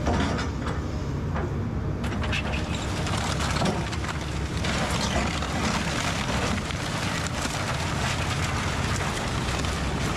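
Kobelco SK210 excavator's diesel engine running steadily under load, with repeated crunching and cracking of wood and brick debris as it tears up and breaks the house's floor, starting about two seconds in.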